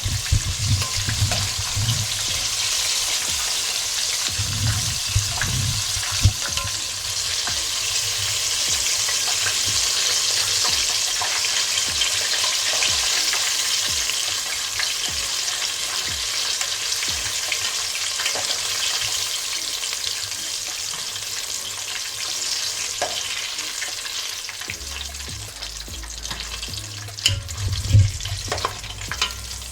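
Chicken wings deep-frying in hot oil, a steady crackling sizzle, with scattered clicks and a few louder knocks near the end.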